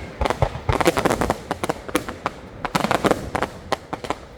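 Fireworks going off in a rapid, irregular run of sharp bangs and crackles, several a second, echoing after each.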